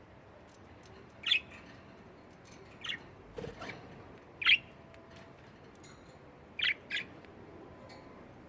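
Pet budgerigars giving short, sharp chirps and squawks, about six calls spaced irregularly, the loudest about halfway through, with a few faint ticks between them.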